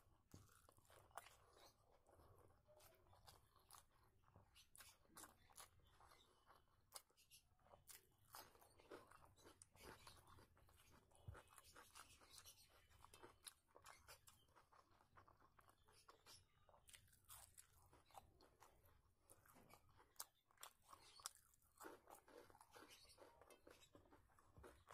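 Faint, close-up chewing and lip smacks of someone eating rice and egg curry by hand: a dense run of small wet clicks. Fingers can also be heard working rice on a steel plate.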